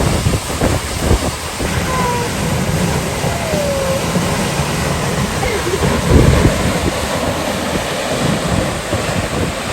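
Vernal Fall heard at close range: a loud, steady rush of falling water, with gusts of wind buffeting the microphone.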